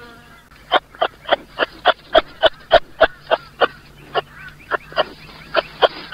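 Kangaroo calling: a rapid, regular run of short, sharp calls, about three or four a second, starting under a second in.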